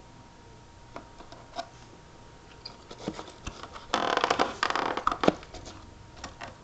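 Plastic parts of a cordless vacuum being handled during disassembly: scattered sharp clicks, then a scraping rattle lasting about a second, about four seconds in.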